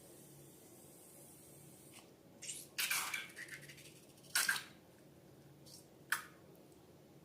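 Slime being handled: a few short wet squelches, a cluster a little before the middle and two shorter ones after it.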